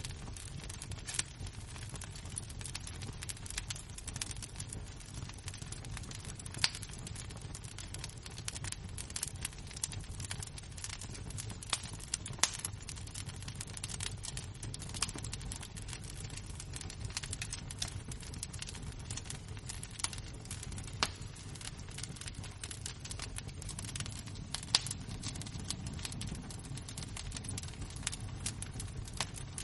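Embers and flames of a fire crackling: a steady run of small irregular snaps, with several louder pops, over a low steady rumble.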